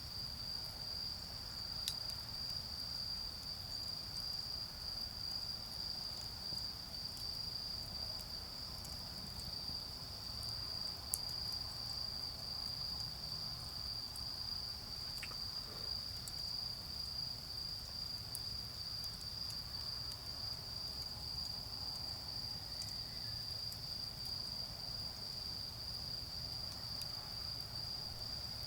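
Autumn insects singing in one steady, unbroken high trill, over a charcoal fire that gives a few sharp pops, the loudest about eleven seconds in. Underneath runs a low, even rumble of distant road traffic.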